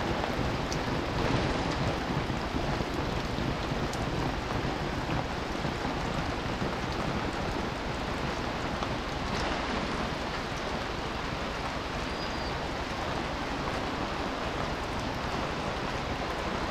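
Heavy monsoon rain falling steadily, a dense even hiss of rain on the ground and surroundings with a low rumble underneath.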